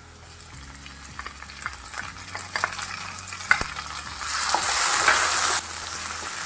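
Chopped onion and tomato sizzling in hot oil in a nonstick pan while a wooden spatula stirs and scrapes them, with light clicks of the spatula against the pan. A little over four seconds in the sizzle swells much louder, then drops suddenly about a second later.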